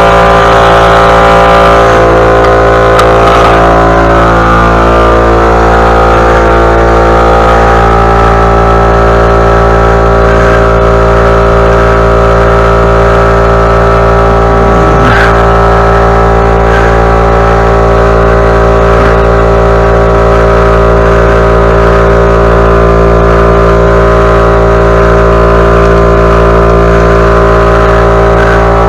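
Poulan gas lawn mower engine running steadily at a constant speed, with a brief falling sound about halfway through.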